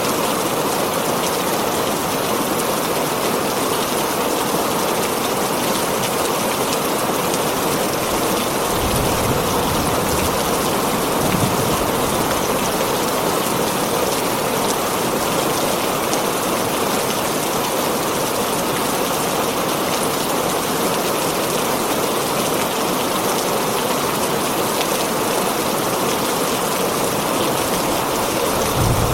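Heavy rain drumming steadily on a tin roof, a dense, even patter. A low rumble rises briefly underneath about nine to twelve seconds in.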